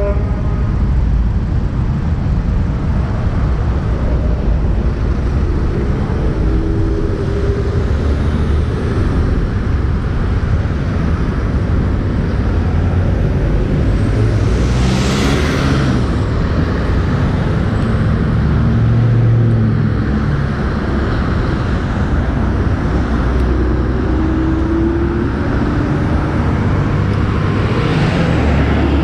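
Motorcycle riding in city traffic: a steady low engine rumble with road and traffic noise, and a brief hiss about halfway through.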